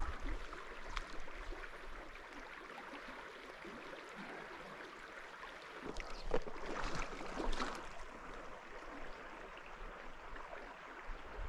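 River water running steadily, with a few louder splashes about six to eight seconds in.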